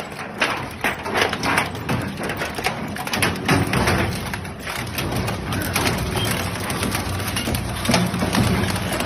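Shredding machine crushing material, with dense cracking and crunching through the first few seconds, then running more steadily with fewer cracks.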